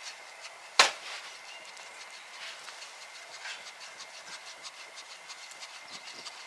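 A single sharp knock about a second in, followed by faint, irregular ticking and clicking.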